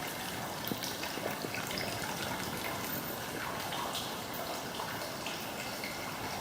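Hot-spring water running into a bath: a steady trickle and splash with small scattered drips.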